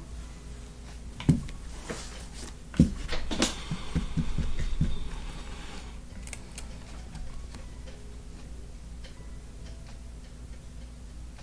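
Trading cards handled on a tabletop: two sharp knocks, then a run of quick taps with a papery rustle for about two seconds, and a few faint ticks after that, over a steady low room hum.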